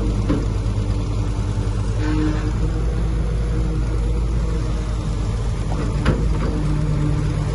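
Heavy diesel engine of earthmoving equipment running steadily under work, with a low hum throughout and a single sharp clank about six seconds in.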